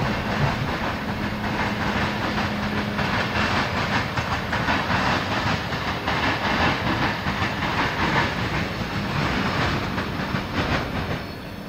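Freight train cars rolling past on the rails: a steady rumble with the wheels clicking over the rail joints. The sound drops away sharply near the end.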